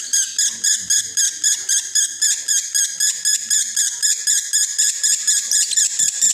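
Male lovebird in breeding condition singing its long, unbroken 'konslet' chatter: a steady run of rapid, high chirps, about four a second, with no pause.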